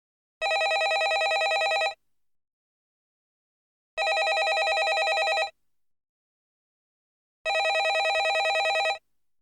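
Landline telephone ringing: three rings, each about a second and a half long with a fast warble, with about two seconds of silence between them.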